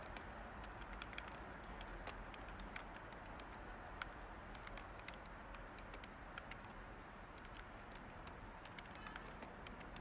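Light typing on a computer keyboard: scattered, irregular keystroke clicks over a steady white-noise hiss.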